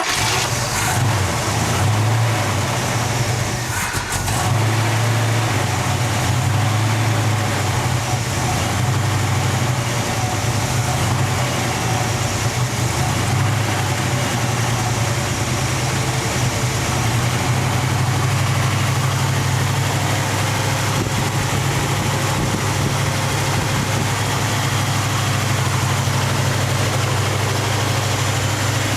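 Chevrolet El Camino SS's 454 big-block V8 running just after start-up, uneven for the first few seconds and then settling into a steady idle.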